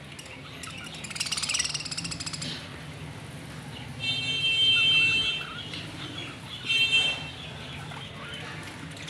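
Birds calling: a rapid buzzy call about a second in, then a loud, held nasal squawk around four to five seconds in and a shorter one just before seven seconds, over a faint low hum.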